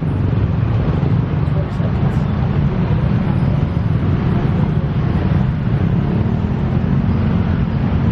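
Diesel locomotive engine running close by, a loud, steady low rumble whose pitch rises slightly near the end.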